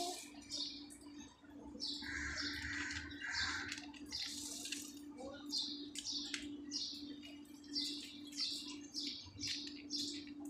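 A small bird chirping over and over, short high chirps about one or two a second, with a faint steady low hum underneath.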